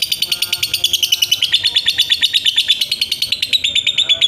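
Lovebird in its long 'ngekek' chatter: an unbroken, rapid string of sharp high chirps, about ten a second.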